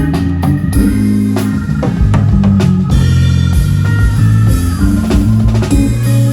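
A live band playing an up-tempo groove: a drum kit keeping a steady beat under sustained bass notes that change every second or so, with guitar and keyboard above.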